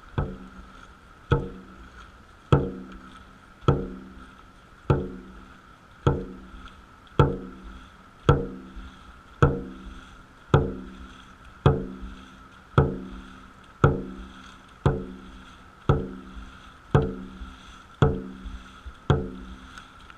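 Dragon boat drum beaten once per paddle stroke in a steady rhythm, each hit ringing briefly, at a little under one beat a second and slightly quickening, pacing the crew's stroke rate. A steady high-pitched tone runs underneath.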